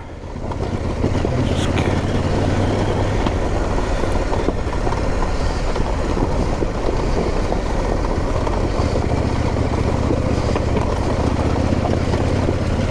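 Motorcycle engine running under steady throttle with a dense noisy rush over it, swelling about half a second in and then holding level.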